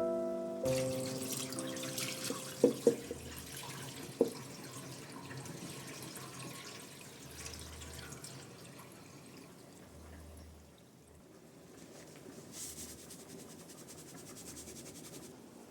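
Water running from a tap into a sink, stopping just before the end, with a few sharp clinks in the first seconds.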